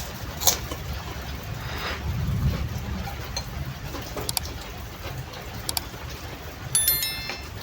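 Eating sounds from a bowl of soup with kerupuk crackers dipped in the broth: a few scattered small clicks and mouth sounds, then near the end a short ringing clink of a spoon against the bowl, over a steady low hum.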